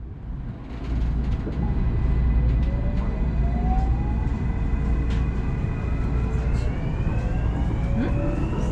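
Electric commuter train running, heard from inside: a low rumble of wheels on rail with a few clicks, and a motor whine that rises slowly in pitch as the train gathers speed. It fades in over the first second.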